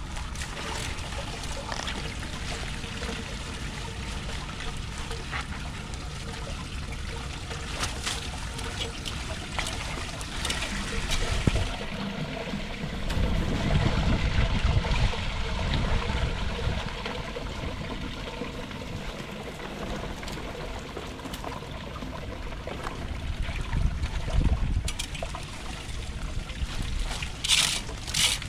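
Water trickling and sloshing at a clogged culvert drain as garbage is cleared from it, with a few clicks and heavier sloshes about halfway in and again near the end.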